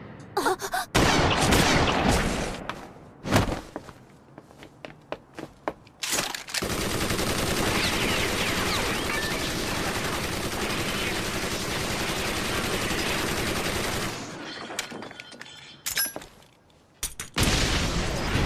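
Action sound effects in an animated fight: a run of sharp cracks and impacts, then a long loud rushing blast of noise lasting several seconds that cuts off, then a few more cracks and another loud surge near the end.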